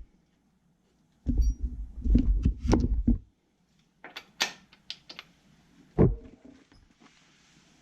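Irregular knocks and clatter for about two seconds, then a few sharp clicks and a single heavy thump about six seconds in.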